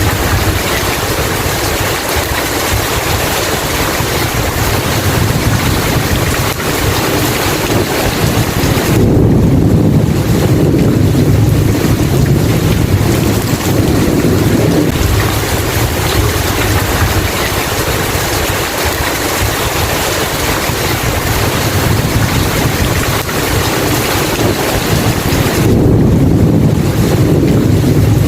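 Steady heavy rain hiss with rolling thunder; low rumbles swell about nine seconds in and again near the end.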